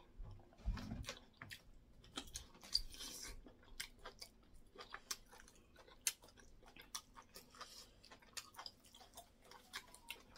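Close-miked mouth sounds of people eating soft semolina fufu with egusi soup by hand: wet chewing and lip-smacking heard as many short, irregular clicks, several a second, with a soft low thump about a second in.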